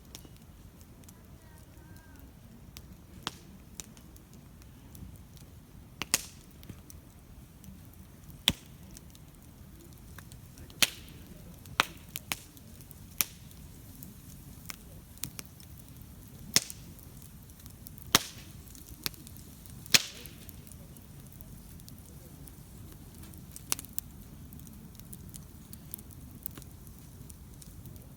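Wood campfire crackling: irregular sharp pops and snaps, about a dozen of them loud, over a low steady rush of the burning fire.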